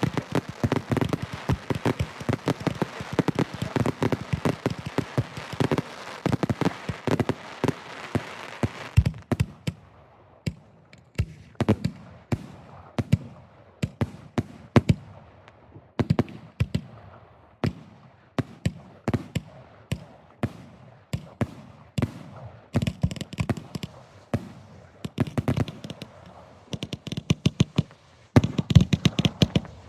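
Fireworks finale: shells firing and bursting in a dense, continuous barrage of bangs and crackle for about nine seconds. Then come separate booms, each with a fading tail, before another dense barrage near the end.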